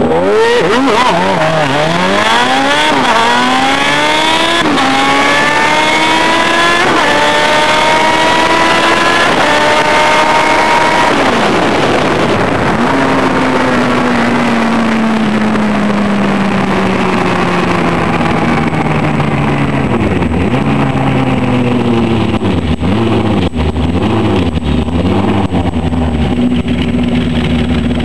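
Suzuki GSX-R 1100 inline-four motorcycle engine on a drag run: it launches hard and revs up through the gears, with about five upshifts roughly every two seconds. About eleven seconds in the throttle closes and the engine note falls away steadily as the bike slows, then comes a few uneven blips before it settles to a low, steady idle near the end.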